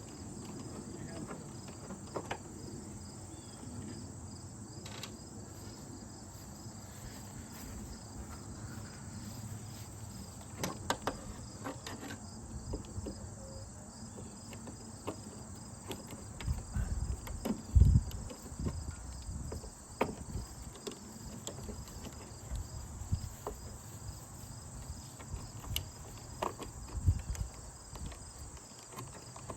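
Insects chirring steadily on a high, finely pulsing note. Over it come scattered clicks and knocks of tools and metal parts as screws and hardware are taken out of an old window air conditioner, with a heavier thump about eighteen seconds in.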